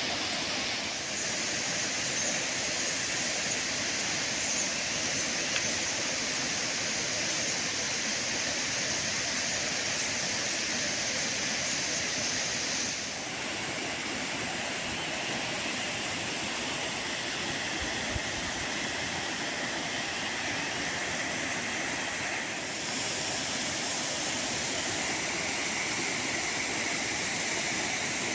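Steady rush of running water, like a mountain stream, with a high thin hiss over it that stops and starts.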